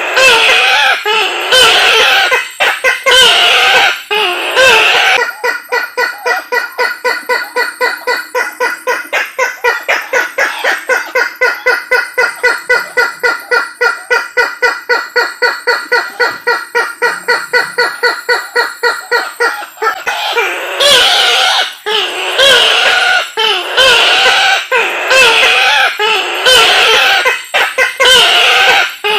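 Sulawesi bush-hen (kareo) calling loudly on a bird-lure recording: harsh, wavering cackling calls, then a long run of rapid, evenly repeated notes about four a second from around five seconds in until about twenty seconds, after which the wavering calls return.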